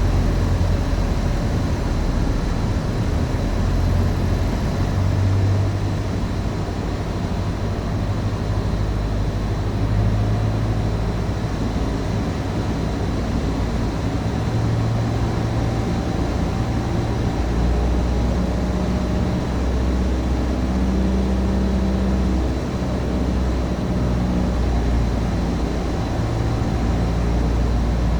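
Cessna 150's Continental O-200 engine and propeller droning steadily in the cabin at reduced power on final approach. The low note shifts lower a little past halfway.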